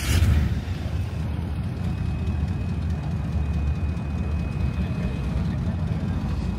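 Lowrider car's engine idling with a deep, steady rumble, after a sudden louder burst right at the start.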